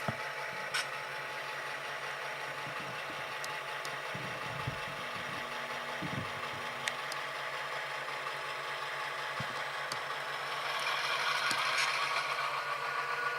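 Tsunami sound decoders playing EMD 567 diesel prime mover sound in HO-scale Proto 2000 GP18 and GP10 model locomotives running at a low throttle notch, a steady engine drone through small speakers with occasional faint clicks, growing slightly louder near the end.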